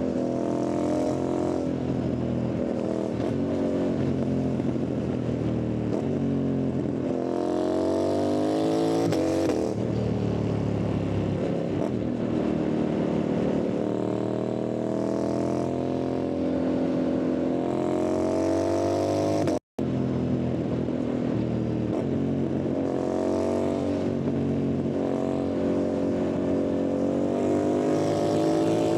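Yamaha MT-07's parallel-twin engine and exhaust under way, rising in pitch as it accelerates about a quarter of the way in and again near the end, easing off and falling in between. The sound drops out for an instant about two-thirds of the way through.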